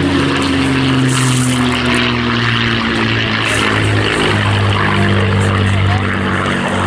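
P-51 Mustang's Packard Merlin V12 engine running steadily in flight, a loud propeller-aircraft drone whose note falls slowly in pitch.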